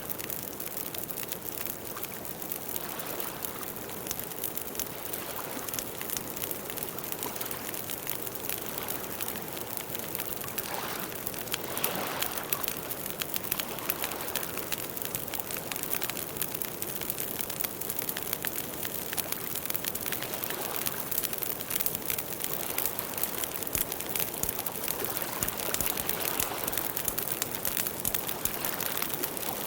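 Campfire burning with a steady crackle of many small pops and snaps over a soft rushing hiss.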